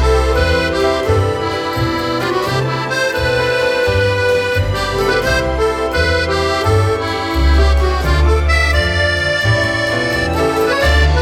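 Accordion music playing a melody over a pulsing bass line.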